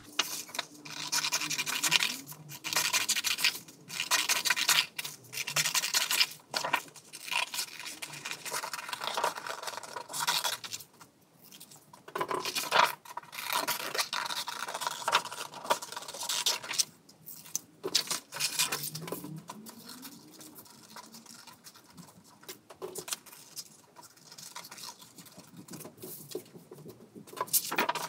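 Scissors cutting through sheets of black paper: a run of irregular snips, quieter in the second half.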